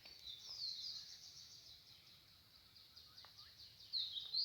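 A bird singing: quick, high, downward-sweeping chirps, loudest about half a second in and again near the end, with a faint rapid chatter of notes between.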